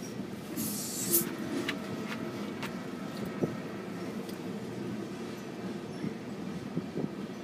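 Freight train of loaded open-top hopper cars rolling past a grade crossing: a steady low rumble with scattered wheel clicks and knocks, and a short hiss about a second in. Heard from inside a car.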